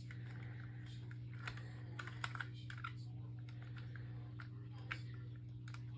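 Faint, scattered light clicks and taps of small plastic scale-model parts being handled and fitted, over a steady low electrical hum.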